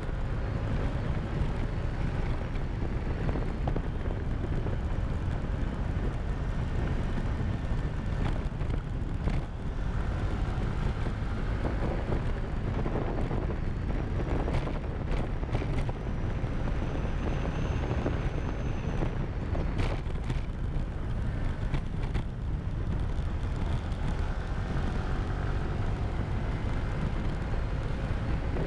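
Motorcycle engine running while riding, its pitch rising and falling with the revs, under a steady rush of wind on the microphone.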